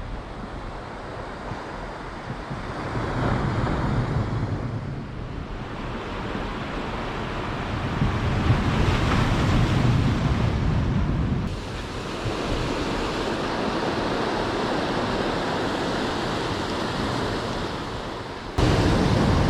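Sea surf washing onto a beach, with wind buffeting the microphone; the waves swell and ebb, loudest about eight to eleven seconds in, and the sound drops suddenly about eleven seconds in and jumps louder near the end.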